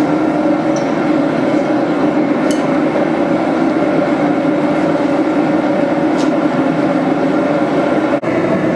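Blacksmith's forge running steadily, a loud even rush of burner or blower noise while the hammer head heats for thermal cycling. A few faint ticks sound over it, and the sound drops out for an instant near the end.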